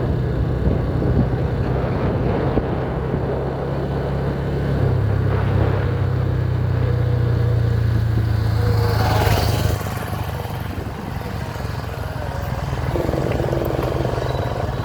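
Motorcycle engine running under way, a steady low drone that changes note about five seconds in and drops in loudness just before ten seconds.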